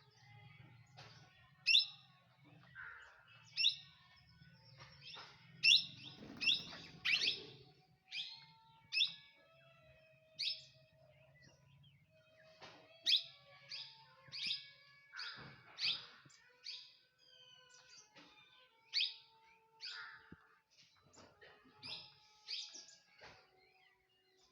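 Parrots calling: a long string of short, sharp, high-pitched calls, about one or two a second, some coming in quick runs of two or three.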